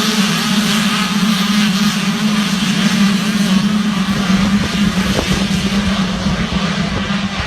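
Motocross bike engines running at high revs, a steady, loud engine note throughout.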